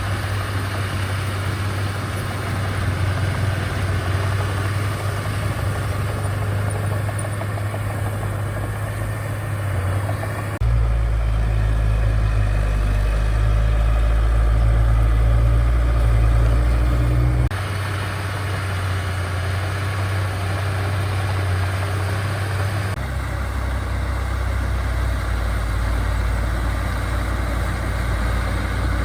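Diesel engines of heavy earthmoving machinery (bulldozers and dump trucks) running steadily with a deep, low hum. The sound changes abruptly three times, with the loudest and deepest stretch coming about a third of the way in.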